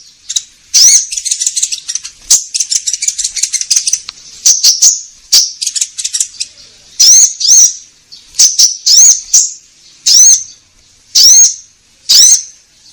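Konin songbird calls played as a lure recording: repeated short, high, arching chirps in groups about a second apart, with a fast chattering trill between about one and four seconds in.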